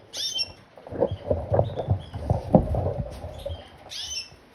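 Canaries giving short chirps, once at the start and again near the end. In between, from about one to three and a half seconds, comes a run of low thumps and knocks, louder than the chirps.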